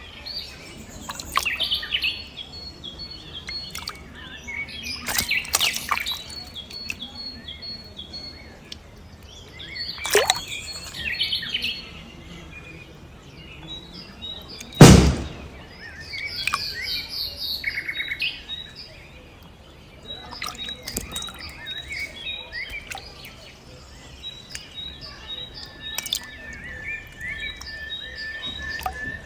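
Small birds chirping and trilling repeatedly in short high bursts. A single sharp, loud thump comes about halfway through, and a thin steady whistle is held over the last few seconds.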